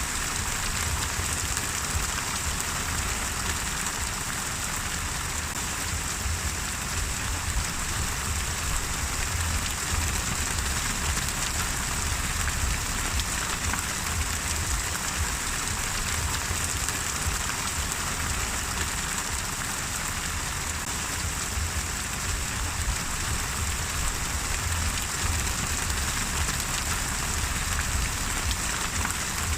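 Steady rain falling on a surface, an even continuous patter without let-up.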